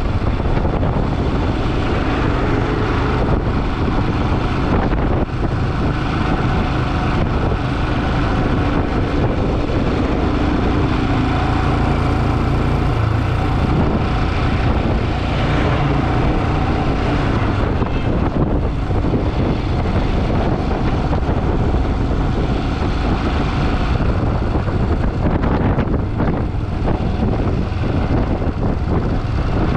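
Motorcycle being ridden along the road, its engine running steadily under loud wind rush on the microphone.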